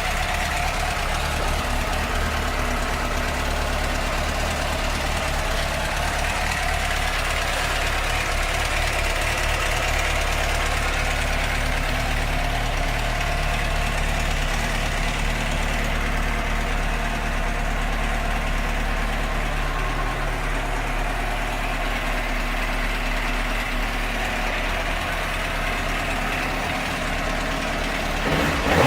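2003 Suzuki GSX-R600's 600cc inline-four engine idling steadily.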